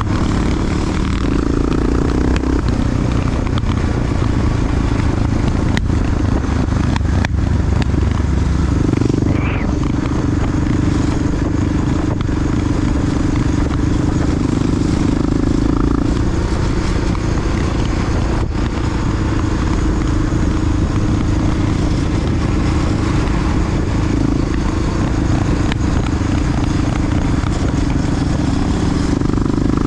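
Big single-cylinder four-stroke Honda XR dual-sport motorcycle running under way, its engine note rising and falling with the throttle over steady wind and road noise, with a few sharp clicks.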